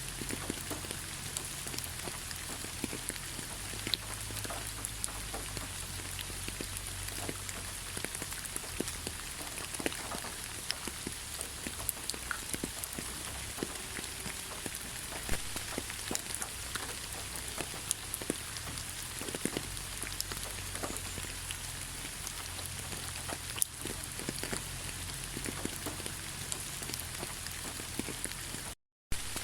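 Steady rain falling in a forest: an even hiss with many close individual drops pattering. The sound cuts out completely for a split second near the end.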